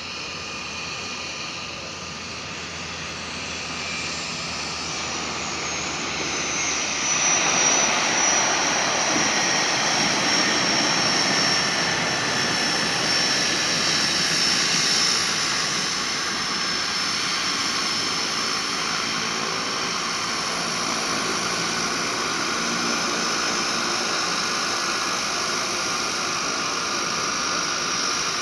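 Float plane's engine and propeller drone, growing louder as the plane comes in to land and loudest about seven seconds in, with a high whine that falls slightly in pitch, then running steadily at a lower level.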